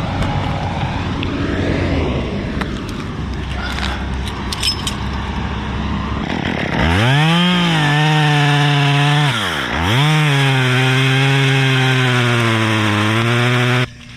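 A low rumble with handling noise, then a two-stroke chainsaw running at high revs, starting about seven seconds in. Its pitch drops sharply and climbs back a few seconds later as the throttle is let off and squeezed again. The engine then holds steady until it cuts off suddenly near the end.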